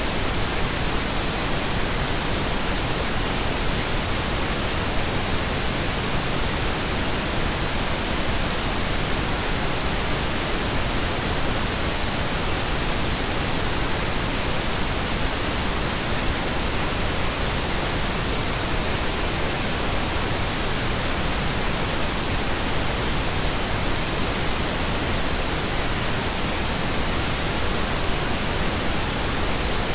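Steady pink noise: a continuous, even hiss that stays unchanged throughout.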